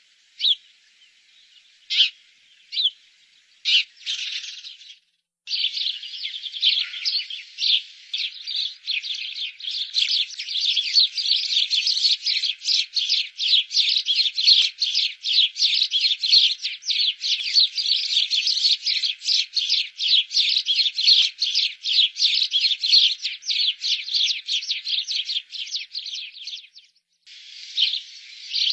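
Rapid high-pitched chirping from a small animal, a few separate chirps at first, then a dense, continuous run of quick chirps that breaks off briefly near the end.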